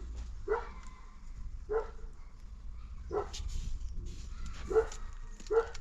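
A dog barking: about five short barks spaced a second or so apart.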